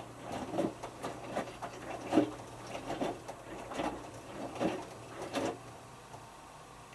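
Hotpoint Futura washing machine drum turning a small load of three t-shirts, with a steady motor hum and a regular soft knock or swish about every 0.8 seconds as the load drops. The drum stops about five and a half seconds in.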